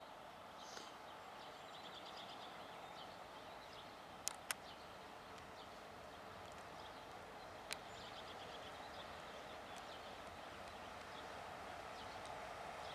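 Faint early-morning outdoor ambience: a steady distant hum that slowly swells, with scattered bird chirps in the first few seconds. Three sharp clicks stand out, two close together about four seconds in and one near eight seconds.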